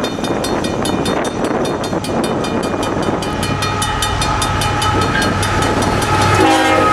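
Level-crossing bell ringing steadily while CN's GE ET44AC Tier 4 diesel locomotives approach and rumble up to the crossing. A steady high whine sets in about halfway and grows louder as the lead locomotive arrives near the end, partly covering the bell.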